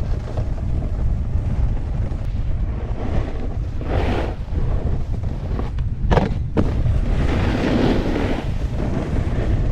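Wind buffeting a GoPro's microphone: a loud, steady deep rumble with a few louder rushes of noise in the middle.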